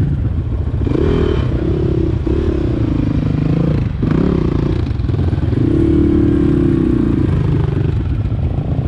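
Dirt bike engine running at low to moderate revs, its pitch rising and falling with the throttle over rough trail.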